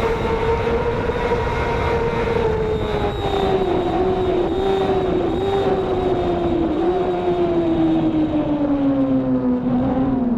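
Racing motorcycle engine running hard at high revs, its pitch slowly sagging with a few brief dips, over a steady rush of wind and road noise.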